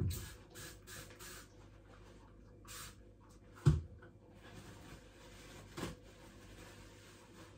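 Handling noises while a washing machine's drain filter is being cleaned out: a few short scraping or rubbing strokes, a loud knock about three and a half seconds in and a smaller knock near six seconds.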